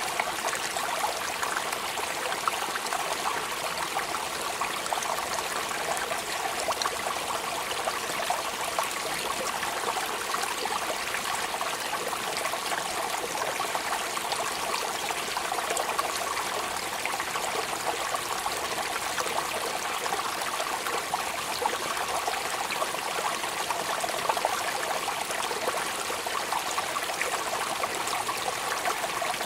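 Steady rain: a dense, even patter of drops over a continuous hiss of falling and running water.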